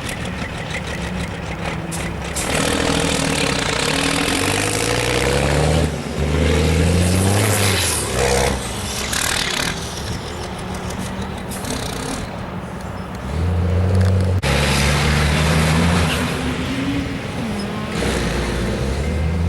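Competition trial truck's engine revving hard, its pitch climbing in several rising runs and dropping back between them as it is pushed through the course.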